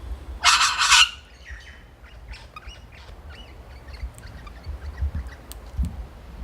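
A bird giving a loud, harsh double squawk about half a second in, followed by fainter short chirps and calls.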